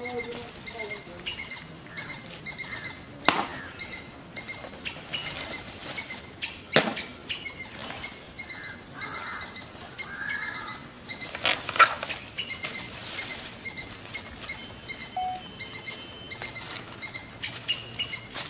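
Small birds chirping over and over, with three sharp impact sounds standing out, the loudest about two-thirds of the way through.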